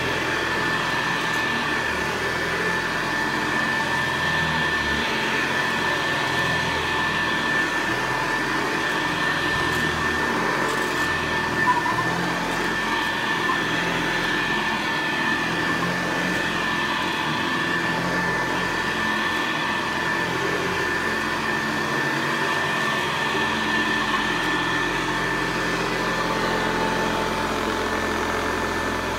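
1968 Hoover Convertible model 706 upright vacuum cleaner running steadily while being pushed along, its motor and fan giving a constant high whine over a rushing noise.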